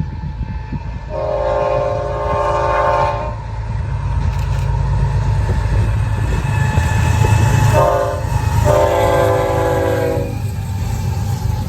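Locomotive air horn sounding several notes at once: a long blast about a second in, then a short one and another long one near the end, the closing part of a grade-crossing signal, over the steady rumble of the passing train.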